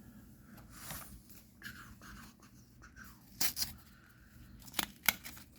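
Hands tearing open a trading card booster pack and handling the cards: soft rustling with a few sharp crackles and rips, the loudest about three and a half seconds in and near the end.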